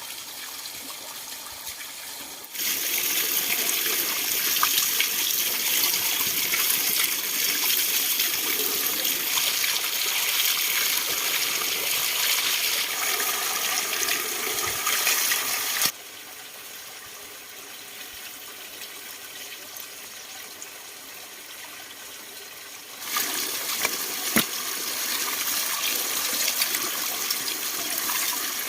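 Running water gushing in two loud spells, each starting and stopping abruptly: the first from about two and a half seconds to about sixteen seconds, the second over the last five or six seconds. A quieter trickle runs between them.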